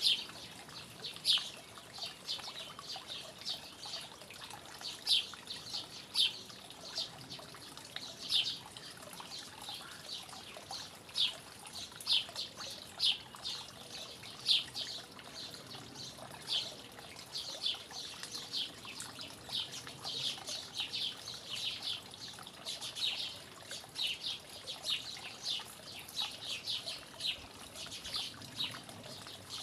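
Small birds chirping in short, high notes, several a second and irregular, over a faint steady hiss.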